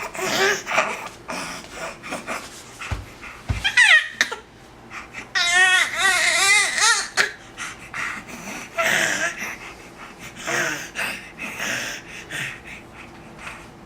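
Three-month-old baby squealing and cooing in excited bursts, with a long warbling squeal about five seconds in. Two soft low bumps come about three seconds in.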